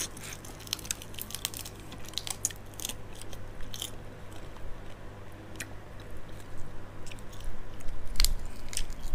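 Crisp, irregular crackling and crunching of giant water bug shells being broken open and chewed, with denser bursts in the first few seconds and again near the end, over a low steady hum.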